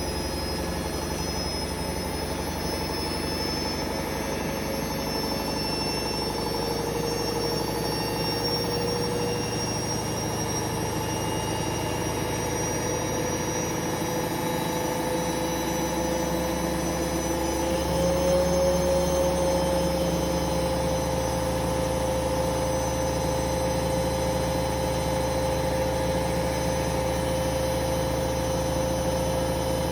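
Hoover Vision Dynamic washing machine on a spin cycle: the motor whines steadily with the drum's low hum, and the whine steps up in pitch and gets slightly louder about 18 seconds in as the spin speed rises.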